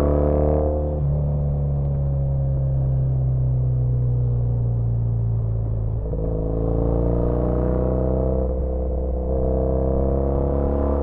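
Triumph Bonneville T100's parallel-twin engine and exhaust under way on the road. The revs climb and fall away at a gear change about a second in, hold steady, then build again from about six seconds, with another shift near nine seconds before climbing once more.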